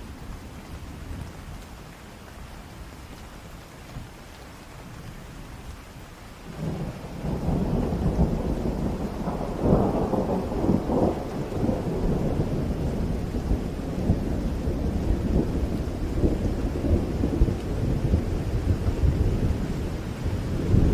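Steady rain, with a long roll of thunder that builds about six seconds in, is loudest a few seconds later, and goes on rumbling.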